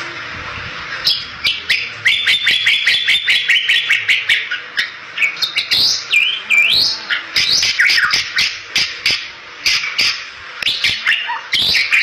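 Bali myna singing: from about a second in, a fast run of sharp clicks and chattering whistles, with a string of quick repeated notes and several rising and falling whistled glides.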